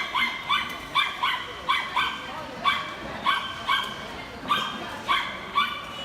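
A dog yipping over and over, high-pitched short yelps about twice a second.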